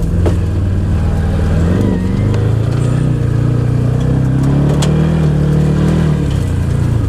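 Can-Am Maverick XMR 1000 side-by-side's V-twin engine running on a tight wooded trail, revs rising about two seconds in and easing back near the end. A single sharp click about five seconds in.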